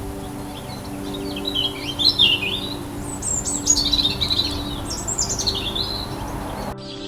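Small birds chirping in quick runs of high, sweeping notes, with a steady low hum underneath; the sound cuts off suddenly near the end.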